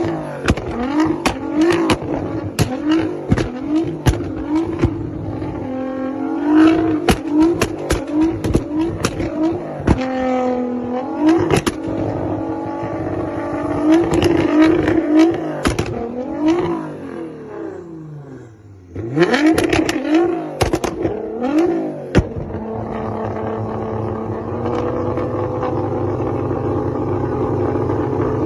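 Nissan GT-R's twin-turbocharged V6 revved in quick repeated blips, with sharp exhaust pops and bangs crackling over it. Later it settles into a steadier note that climbs slowly.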